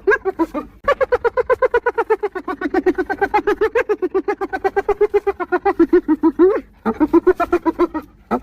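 Spotted hyena giggling: a fast run of short pitched notes, about seven a second, broken by two brief pauses, just before one second in and near seven seconds.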